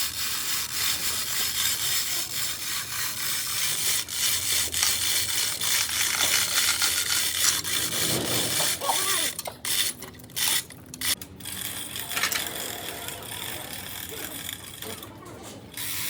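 Hand tools working on a truck repair: a steady, dense scraping with rapid fine clicking. It breaks off briefly several times a little past the middle and once more near the end.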